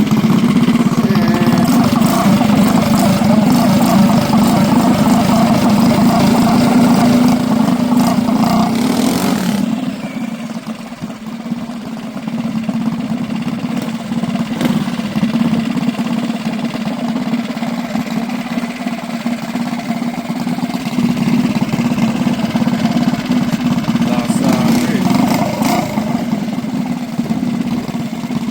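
Small minibike engine running at a steady high pitch. It drops away suddenly about a third of the way through, runs on quieter, and builds again toward the end.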